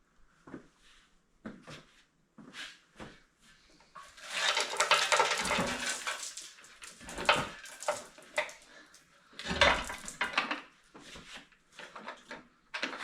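Metal tools and steel parts clanking and clattering during work on the grader blade's bolts: scattered knocks, a denser rattling stretch in the middle, and a few heavier clanks.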